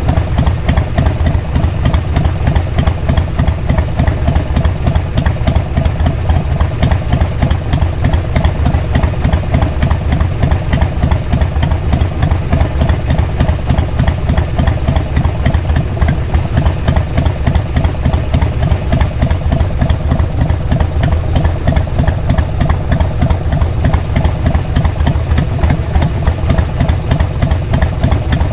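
Exhaust of a 2002 Harley-Davidson XL883R Sportster's 883 cc air-cooled V-twin through a Cobra SpeedSter Short aftermarket muffler, running at a steady, unchanging speed with an even, rapid low pulse.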